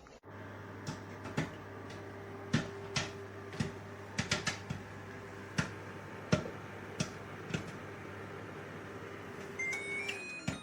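LG MH6565CPS over-the-range microwave oven running with a steady hum, with irregular sharp clicks or pops over it. The hum stops near the end, and a short run of electronic beeps follows.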